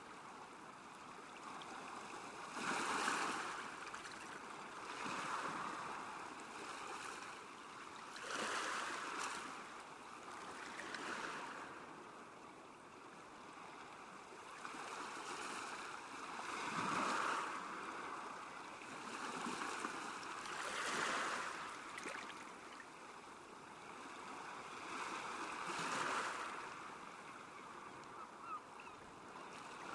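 Small waves washing onto a lakeshore, each wave swelling and fading every few seconds.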